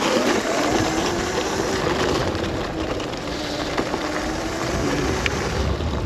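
Modded Razor MX650 electric dirt bike riding on snow: a steady whine from its electric motor over a constant rush of wind and tyre noise.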